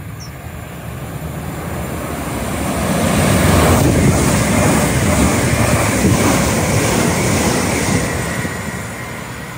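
A Great Western Railway passenger train passing through the station at speed: the rumble of wheels on rail and the rush of air build up, stay loud for several seconds as the train goes by, then fade near the end.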